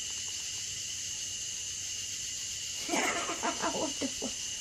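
A steady, high-pitched insect chorus with two sustained tones. About three seconds in, a brief run of voice-like calls lasts a little over a second.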